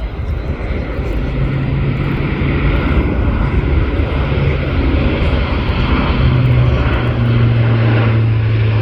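Airbus A400M Atlas flying past, its four TP400-D6 turboprop engines and eight-bladed propellers giving a loud, steady low drone. The drone swells in the first second and drops in pitch about six seconds in as the aircraft passes.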